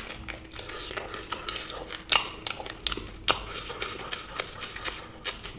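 A person eating close to the microphone: irregular crunching and wet mouth clicks, the two loudest about two and three seconds in.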